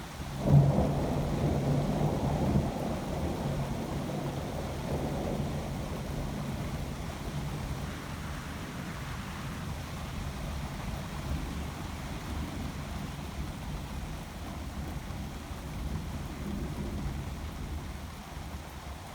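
A sudden thunderclap about half a second in, rumbling on for two or three seconds and fading into a steady low rumble and rushing noise.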